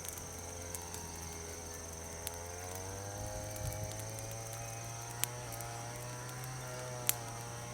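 Wood fire of green chestnut branches giving a few sharp, isolated crackling pops. Under them runs a steady droning hum with a slowly wavering pitch, like a distant engine, and a thin high-pitched tone.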